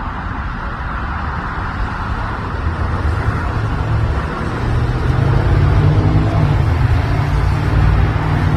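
A motor vehicle's engine running close by over road noise, growing louder about halfway through.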